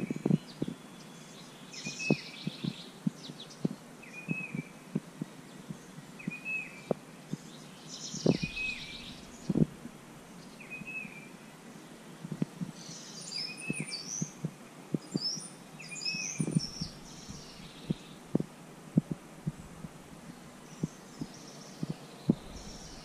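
Birds singing: one bird repeats a short chirp about once a second while others sing higher around it, over scattered short low knocks and thumps.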